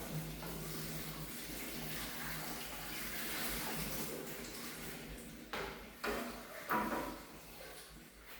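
Water running steadily from a tap for about five seconds, followed by three quick knocks.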